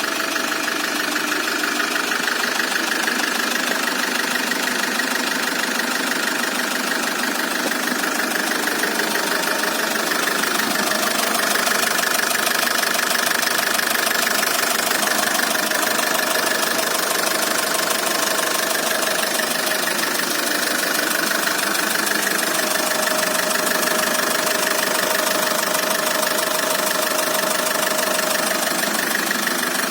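4D20 four-cylinder diesel engine idling steadily, getting slightly louder about ten seconds in.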